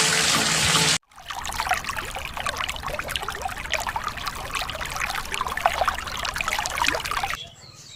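A loud steady hiss for the first second that cuts off suddenly, then water trickling and splashing for about six seconds before it drops away near the end.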